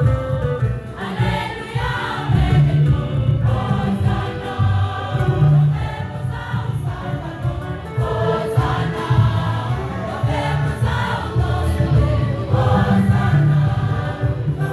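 A choir singing gospel music with instrumental backing and a strong bass line.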